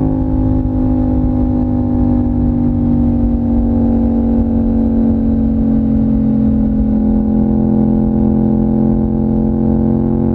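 Yamaha MT-07's 689 cc parallel-twin engine running under way, a steady engine note whose pitch sinks slowly as the bike eases off.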